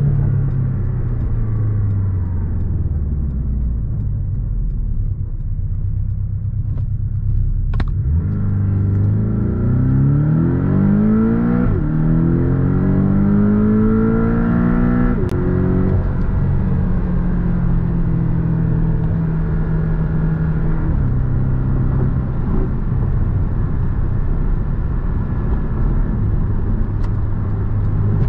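Base 2020 Porsche 718 Boxster's turbocharged 2.0-litre flat-four engine heard from the driver's seat. It winds down at first, then accelerates hard from about eight seconds in, rising in pitch, dropping at an upshift and rising again. From about sixteen seconds it settles into a steady cruise.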